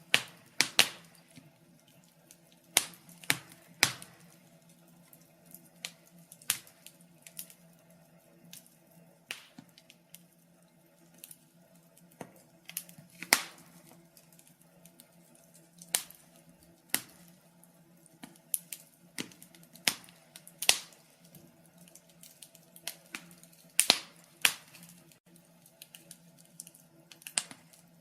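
Wood fire crackling: sharp, irregular pops and snaps at uneven intervals, a few much louder than the rest.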